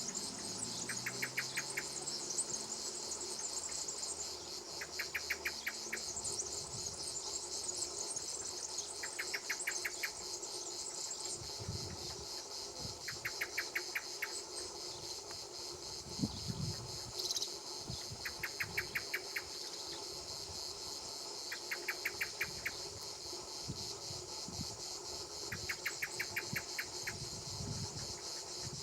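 Summer insect chorus: a steady, dense high buzz, with a short pulsed trill of clicks, about a second long, repeating roughly every four seconds.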